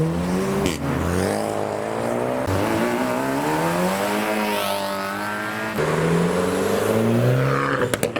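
Modified cars' engines accelerating away from a meet, the pitch climbing and dropping as they rev through the gears; the sound changes abruptly about six seconds in as another engine takes over.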